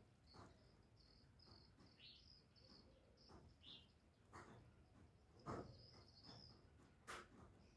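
Faint outdoor background with no dove cooing: a steady pulsing insect chirr, two short high bird chirps, and a few soft knocks, the loudest about five and a half seconds in.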